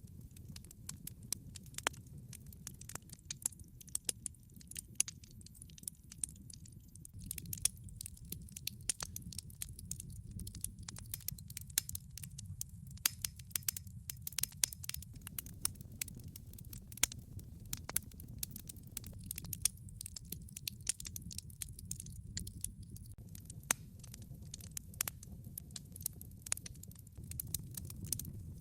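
Wood fire crackling: dense, irregular sharp pops and snaps from burning logs over a steady low rumble of the flames.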